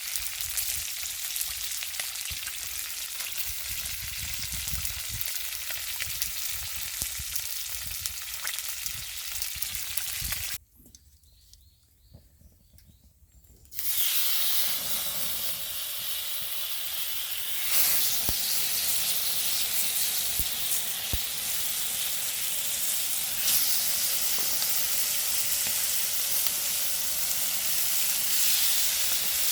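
Clams sizzling on a grill over a wood fire: a steady hiss with small scattered crackles. It breaks off for about three seconds a third of the way in, then comes back louder.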